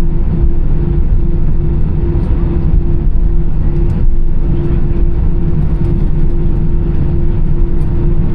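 Airbus A320's CFM56 jet engines running at taxi power, heard inside the cabin: a steady low rumble with a steady, regularly wavering hum.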